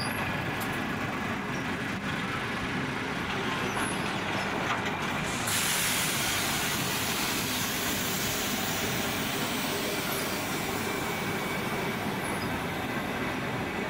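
Passenger train carriages rolling slowly past, their wheels running steadily on the rails. About five and a half seconds in, a steady high hiss joins and carries on.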